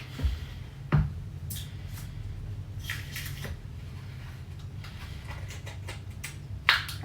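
Kitchen items being handled: a couple of dull knocks early on, then scattered light clicks and taps, and a sharper knock near the end, over a low steady hum.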